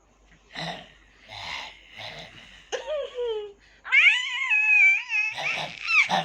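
Baby vocalizing: a few short breathy sounds, a short falling cry, then a loud, very high-pitched wavering squeal about four seconds in.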